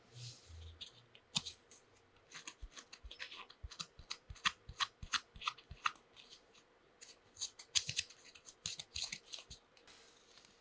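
Small plastic toy tea-set pieces and their packaging being handled by hand: many light, irregular clicks and taps, coming thicker in the second half.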